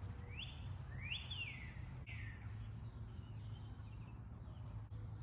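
A bird chirping: three short rising-and-falling chirps in the first two seconds or so, then a few fainter ones, over a steady low hum.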